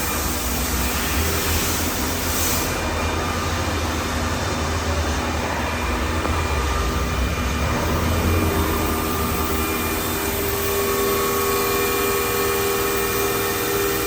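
HMC630 horizontal machining center running: a steady low rumble under several steady whining tones, with a brief hiss about two and a half seconds in and new, higher tones coming in about eight and a half and ten and a half seconds in.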